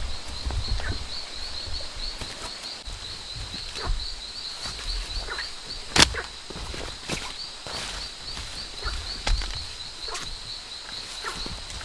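Rainforest ambience: a high-pitched chirping call repeating about four times a second, with scattered clicks and low thumps and one sharp crack about six seconds in.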